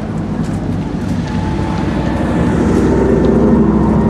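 Fire truck's engine running steadily, growing louder about halfway through.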